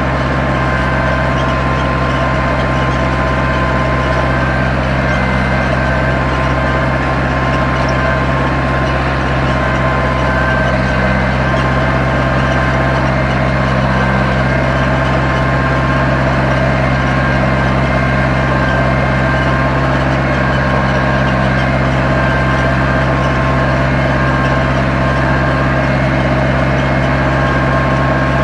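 Zetor 7245 tractor's four-cylinder diesel engine running at a steady speed under load, pulling a plough.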